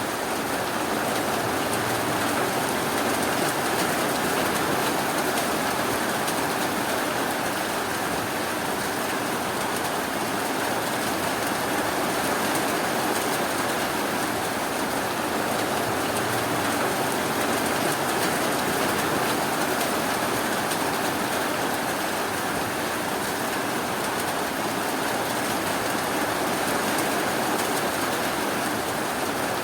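Steady rain, a dense even hiss of rainfall with no breaks or thunder.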